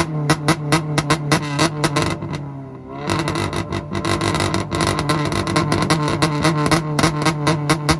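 1991 Honda Civic's engine held on a two-step launch limiter, popping and banging about five times a second against a steady held rev. A little over two seconds in the revs drop briefly and climb back, then it goes back onto the limiter.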